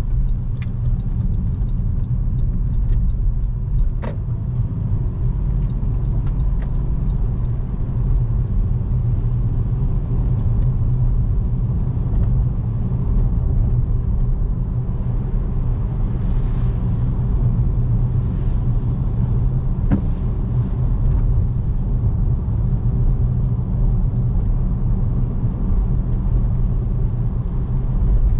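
Car driving: a steady low rumble of engine and road noise, with a few brief clicks, the clearest about four seconds in and near twenty seconds in.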